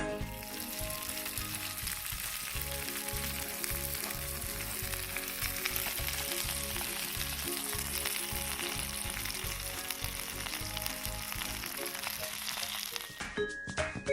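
Steady sizzling and crackling from a wood fire in a low campfire stand, dense and unbroken, stopping abruptly about a second before the end.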